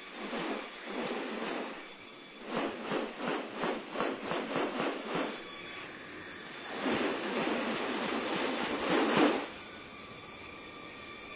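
Rainforest ambience with a steady high insect drone. Over it a bird gives harsh calls: a run of quick pulses, about three or four a second, then a longer rasping call that grows louder and cuts off suddenly.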